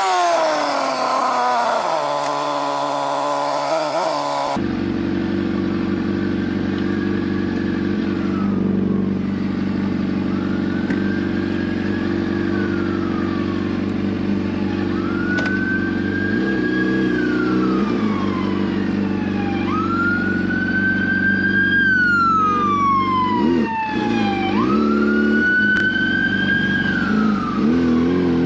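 A motorcycle engine slowing, its revs falling. Then a steadily running engine with a couple of short revs, under a police siren wailing in long rises and falls that grow louder.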